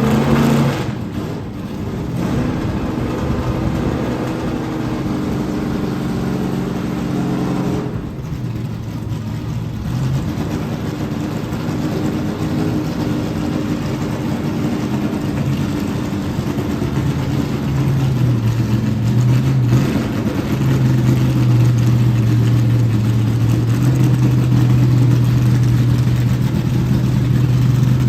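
A vehicle engine running steadily. Its pitch shifts about eight seconds in, and its hum grows stronger in the second half.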